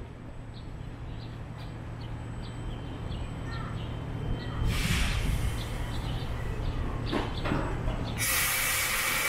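ABB X10p electric train standing at the platform with a steady low hum, faint high chirps about twice a second, a short burst of hiss about halfway through and a loud, long hiss starting near the end.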